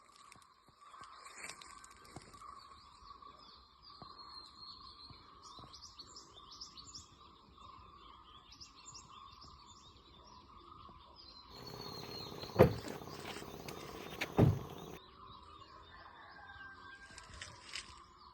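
Birds chirping and twittering over a steady faint drone. About two thirds of the way through, a louder noisy rush lasts a few seconds and carries two sharp knocks.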